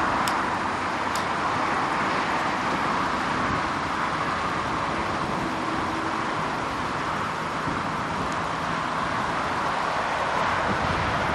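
Steady road and wind noise from a car being driven at an even speed, with no clear rise or fall in engine note.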